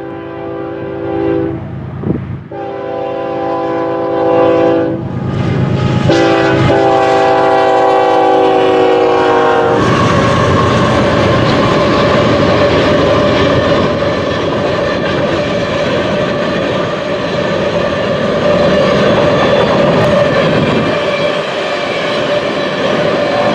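A freight locomotive's multi-tone air horn sounds three blasts, the last held longest and falling in pitch as the train reaches the camera. Then the train rolls past loudly, its wheels clattering over the rail joints.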